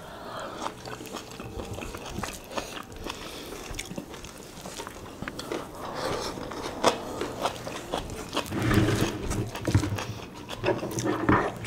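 Close-miked eating sounds: wet chewing, lip smacks and small mouth clicks as mouthfuls of rice and fatty beef in asam pedas gravy are eaten by hand. A short low hum of a voice comes about nine seconds in.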